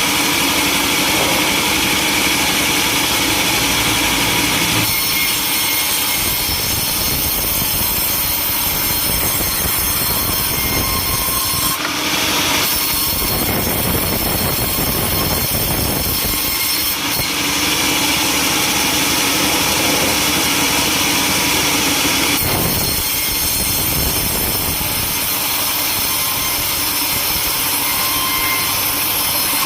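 Sawmill saw running and cutting through timber, its sound changing in character a few times as the cut goes on.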